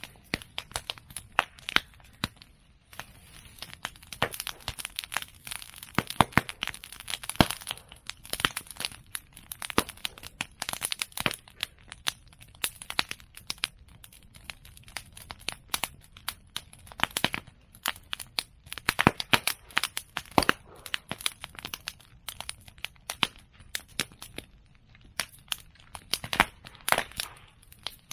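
Open fire of cut bamboo and chestnut prunings crackling: dense, irregular snapping throughout, with louder sharp pops scattered through it as bamboo bursts in the heat.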